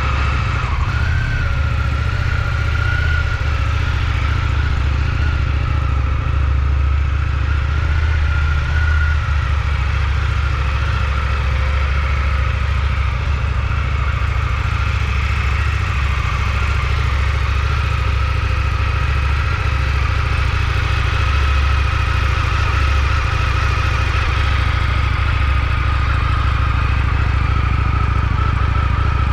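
Indian FTR R Carbon's 1203 cc V-twin engine idling steadily, with a high whine over the low engine note.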